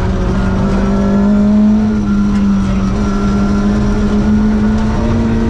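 Ford Escort Mexico rally car's four-cylinder engine pulling at steady revs, heard from inside the cabin, with a small step up in pitch near the end. Tyres on the gravel road make a dense rumble beneath it.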